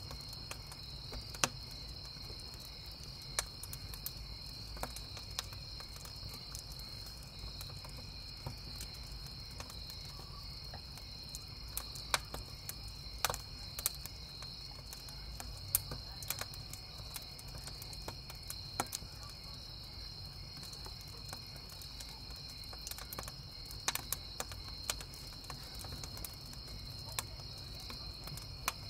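Crickets chirping in a steady high trill while a wood campfire crackles with irregular pops and a few louder snaps, over a low rumble.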